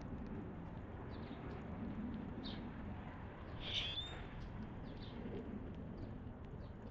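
Wild songbirds chirping: short, scattered, down-slurred chips about once a second, the loudest just under four seconds in. A steady low rumble runs underneath.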